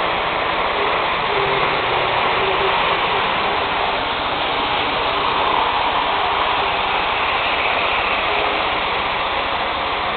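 Hornby model Class 47 locomotive running fast along the track: a steady, even whirring rush of its small electric motor and wheels on the rails, with a faint motor whine in the first half.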